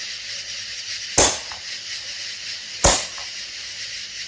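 Handheld shot-firing firework going off: a steady hiss of burning composition, broken twice by a sharp pop as a shot fires out, the pops about a second and a half apart.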